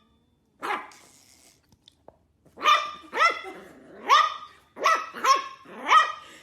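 A dog barking: one bark near the start, then a run of six barks from about two and a half seconds in.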